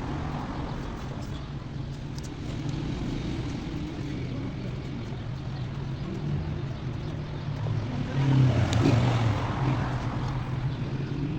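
A steady low motor drone, swelling louder for about a second around eight seconds in, with a few faint clicks.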